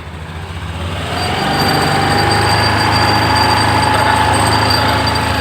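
Honda Beat scooter's 110 cc single-cylinder engine and CVT revved up from idle over about a second and a half, then held at raised revs with a steady whine. The throttle is opened to bring out the jingling rattle the owner complains of, which only appears under throttle.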